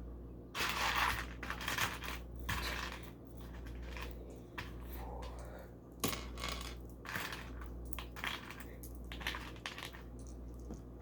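Small plastic LEGO pieces being handled and pressed together: irregular short rustles, clatters and sharp clicks over a steady low hum.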